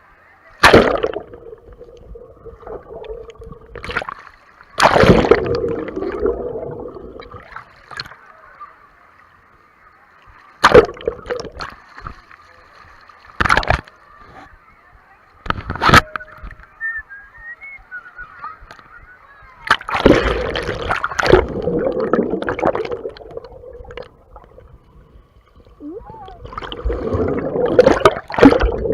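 Water sloshing and splashing, muffled as if through a waterproof camera case, with sharp splashes every few seconds.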